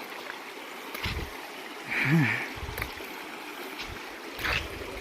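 River water flowing over rocks in a steady rush, with a few low thumps and a short voiced sound about two seconds in.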